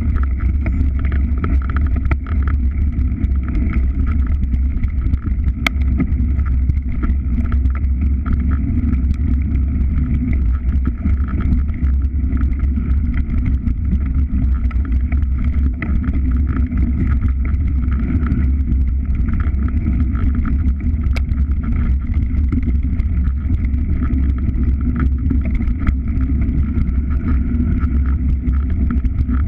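Steady low drone of a moving vehicle, unchanging throughout.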